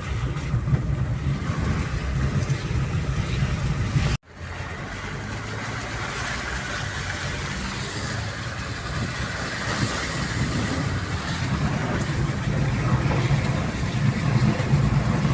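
Vehicle driving along a road: a steady low engine and road rumble with tyre hiss. It breaks off in a sudden gap about four seconds in, then carries on.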